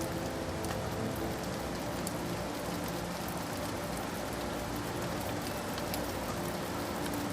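Steady rain falling, an even hiss with many individual drops tapping on a surface.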